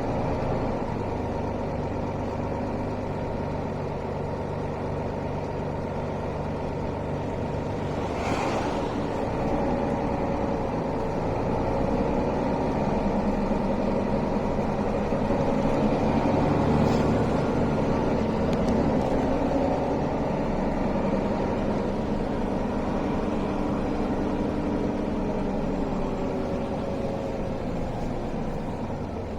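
Mercedes-Benz O405 city bus, heard from inside the cabin, its six-cylinder diesel running under way. The engine grows louder and higher through the middle as the bus picks up speed, then eases off, with a short hiss about eight seconds in.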